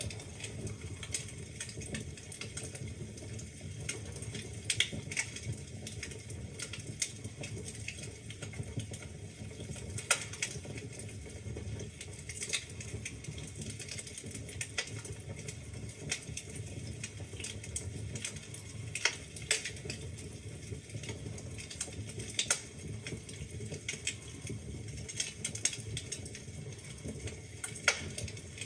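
Wood fire burning in a fireplace: logs crackling with irregular sharp pops, some louder than others, over a low steady rumble of the flames.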